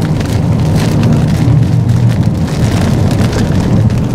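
Steady low rumble of a moving vehicle's road and engine noise, heard from inside the cabin.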